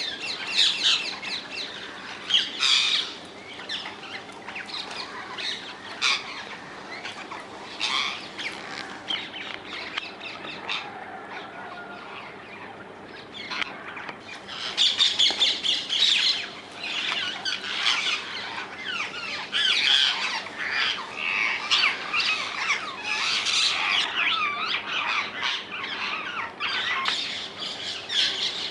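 A flock of rose-ringed (Indian ringneck) parakeets giving harsh, screeching squawks, several calling at once, with the calling growing denser about halfway through.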